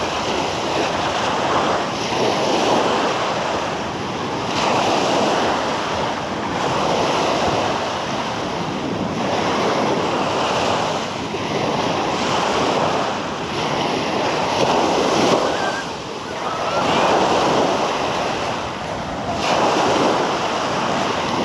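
Small sea waves breaking and washing up on a beach, one surge after another about every two seconds.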